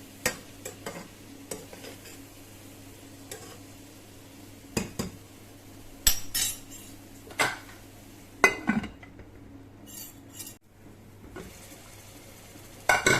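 A spoon scraping and knocking against a pressure cooker pot while stirring onions with green paste: separate clinks and scrapes a second or two apart.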